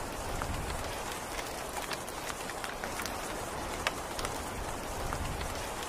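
Steady rain falling: an even hiss with scattered sharp ticks of drops landing close by.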